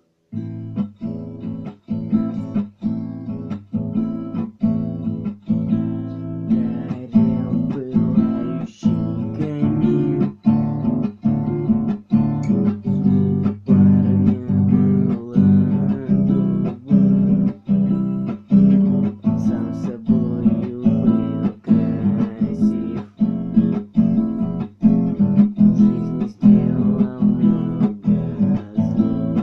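Acoustic guitar strummed in a steady rhythm, chords starting about half a second in.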